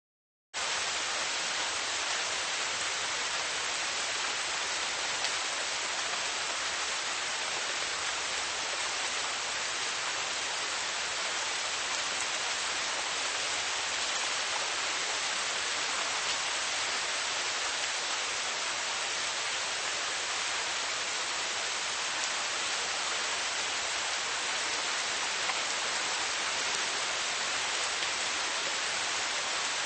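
Steady rain falling, a dense even hiss of many drops with an occasional faint louder drop.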